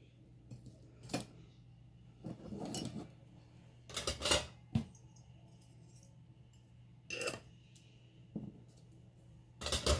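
Paper and small craft items being handled on a table: scattered taps and clicks of small hard objects set down and picked up, with a few short rustles of paper.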